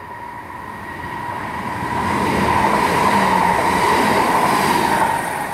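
Class 323 electric multiple unit passing through the station at speed without stopping: rail and wheel noise growing louder over the first two seconds, then holding, with a steady high whine running through it.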